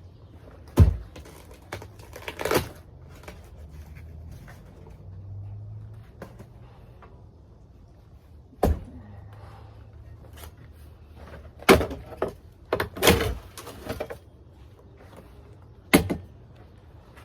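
Heavy hand-tool blows striking a hot tub shell as it is broken apart, about nine sharp hits at irregular intervals. The loudest comes about a second in, and several follow in quick succession in the second half.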